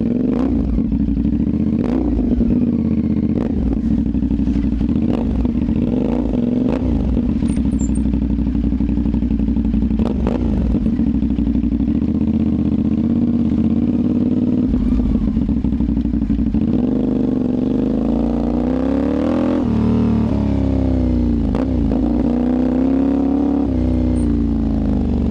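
Motorcycle with a slip-on exhaust running at idle, with short sharp blips every second or two. From about two-thirds of the way through, the revs rise and fall repeatedly.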